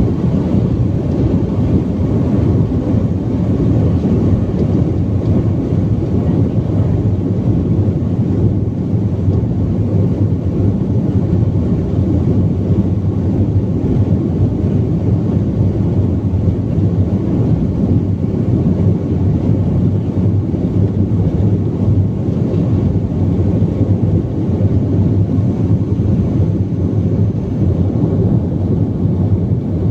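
Steady, loud low rumble inside the cabin of a BAe 146 airliner in flight on approach to land: the noise of its four turbofan engines and the airflow over the fuselage.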